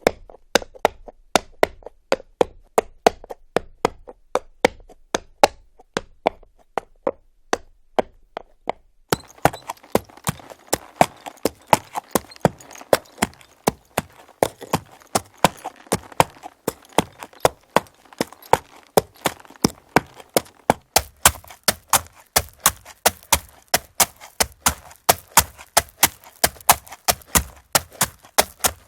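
Horse hooves clip-clopping on hard ground in a steady rhythm, about two to three sharp clops a second. A faint rushing background joins about nine seconds in, and the clops turn brighter and a little quicker later on.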